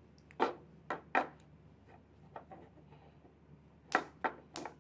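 Handling noise: about seven light taps and knocks at irregular intervals, with a few fainter ticks in between.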